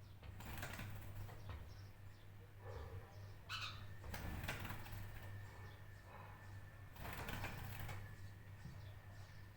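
Birds, faint: a few brief rustling bursts that may be wing flaps, and one short call about three and a half seconds in, over a steady low hum.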